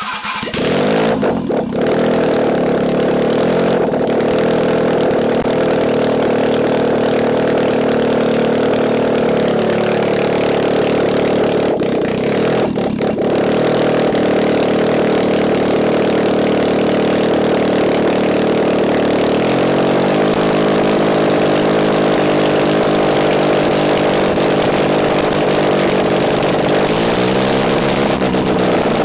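Toyota 4A-GE silver top four-cylinder engine on an engine stand with no exhaust fitted, on stock individual throttle bodies, starting up and running loud and open, its first run in about two years. It settles into a steady idle, the note shifts about two-thirds of the way in, and near the end the revs rise and fall twice.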